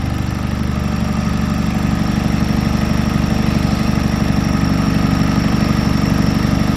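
Freshly rebuilt Hyundai 2.0-litre Theta turbocharged four-cylinder idling steadily, warm but still being broken in.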